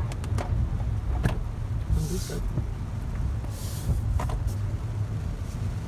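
Heavy rain downpour with wind buffeting the microphone as a steady low rumble, scattered sharp drip clicks, and two brief hissing swells about two and three and a half seconds in.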